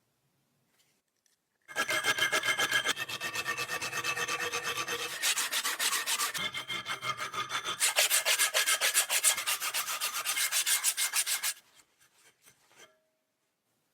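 Quick back-and-forth abrasive rubbing strokes, several a second, on a part of an old pocket lamp as it is filed or sanded down. They start about two seconds in and stop about two seconds before the end.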